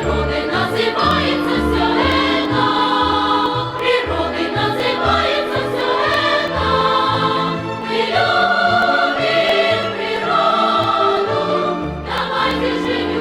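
Music with a choir singing over a pulsing bass line.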